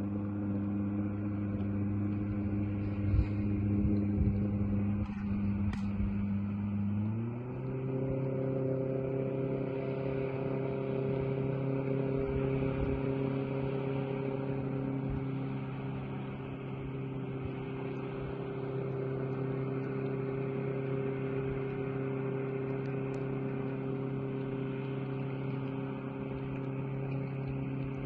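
Yamaha 60/40 jet outboard running steadily. About seven seconds in, its pitch climbs quickly to a higher speed and then holds there, with a few knocks before the climb.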